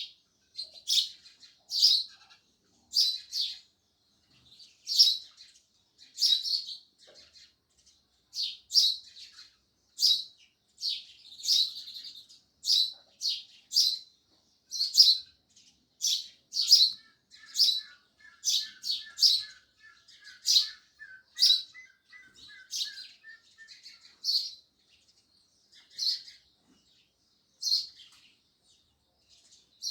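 House sparrows chirping: loud, short chirps repeated about once or twice a second. Midway through, a fainter, lower run of quick notes joins in for several seconds.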